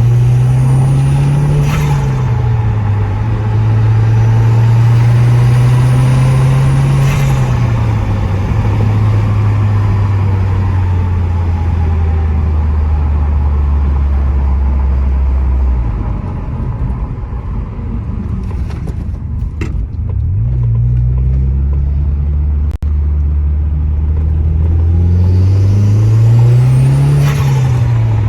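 Turbocharged 1.8-litre four-cylinder engine of a Mk1 Audi TT quattro with an open aftermarket intake, pulling under boost three times. Each time the revs and a high turbo whistle climb together, then the throttle snaps shut and the turbo flutters, which is compressor surge. Between pulls the engine runs steadily.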